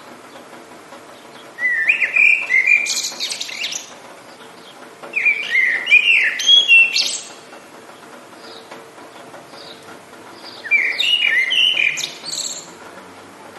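A songbird singing a quick, warbling phrase of chirps three times, each about two seconds long, with pauses between them over a faint steady background hiss.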